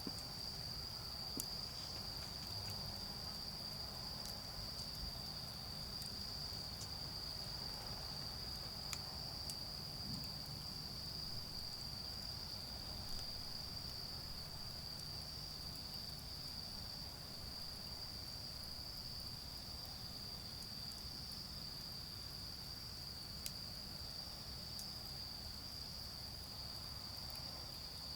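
A chorus of autumn crickets chirring in one steady, high-pitched band, with a few faint crackles from a charcoal fire and a low rumble of distant road traffic underneath.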